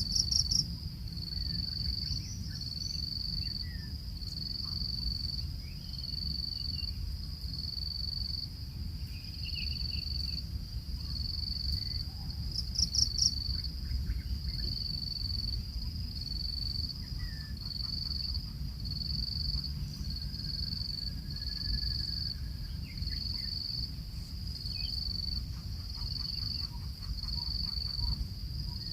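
An insect chirping in short, evenly spaced high pulses about once a second, over a steady low rumble, with a brief burst of clicks near the start and another about halfway through.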